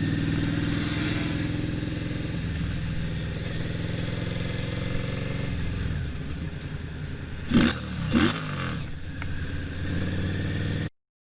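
Motorcycle engine running steadily, with two short, loud bursts close together about two-thirds of the way through. The sound drops out completely for a moment near the end.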